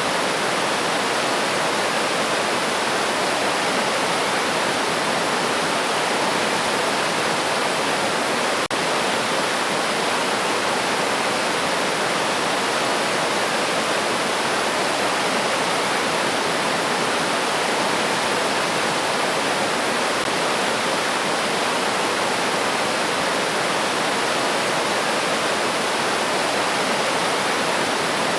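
River water rushing steadily over stones, a constant even flow with no change in level. A faint brief tick about nine seconds in.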